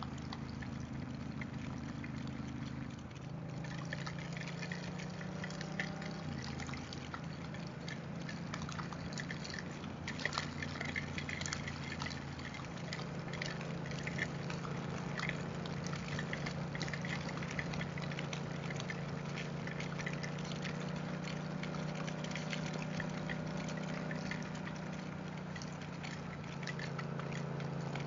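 Motorcycle engine running at road speed in the rain, its note stepping to a new pitch about three and six seconds in. Under it is a steady hiss of rain and wet-road spray, with scattered ticks of raindrops striking.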